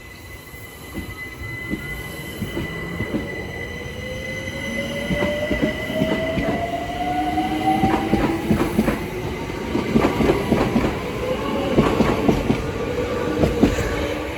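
London Overground Class 378 electric train pulling away, its traction motors whining in two tones that rise in pitch as it accelerates and then level off. Wheel knocks over the rail joints come thicker and louder as it gathers speed.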